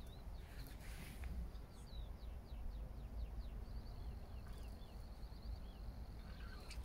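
Small birds calling in quick series of short, high chirps, with a thin high steady note held through the second half, over a steady low rumble.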